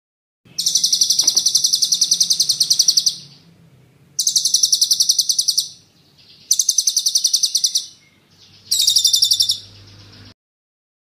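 A songbird's rapid, high rolling trill in four bursts of about one and a half to two and a half seconds each, with short pauses between; it stops suddenly near the end.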